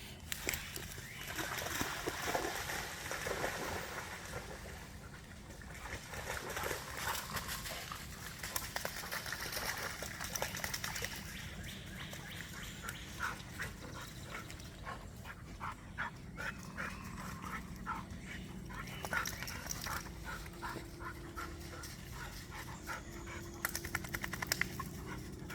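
Dogs moving about at low level, with light scuffs and clicks scattered throughout.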